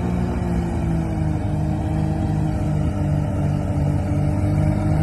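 Vintage tractor engine running steadily with a slow, regular throb, its pitch easing down slightly.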